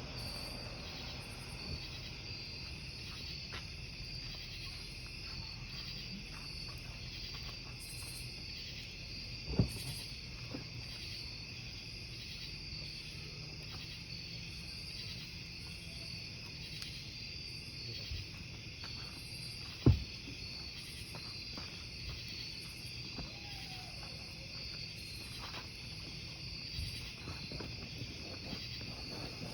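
Crickets chirping steadily in a pulsing high chorus over a wood campfire, which crackles with small scattered snaps and gives two sharp, loud pops, about ten and twenty seconds in.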